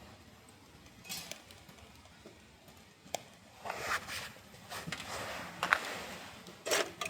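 Irregular knocks, clinks and rustles, a few seconds apart, as of things being handled by hand.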